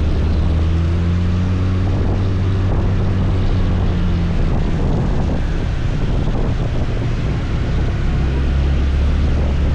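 Scooter being ridden at a steady pace: a steady low drone of engine and road noise.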